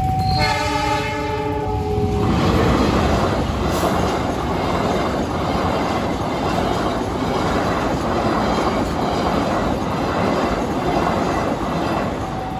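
Horn of the KA Argo Parahyangan passenger train sounding for about two seconds at an automatic level crossing, then its carriages rushing past with rhythmic wheel clatter over the rails. The crossing's alternating two-tone warning alarm is heard at the start and comes back near the end as the train clears.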